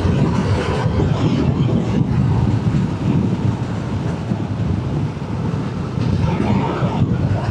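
Motorcycle riding at road speed: the Yamaha R7's parallel-twin engine running steadily under constant wind rush on the microphone.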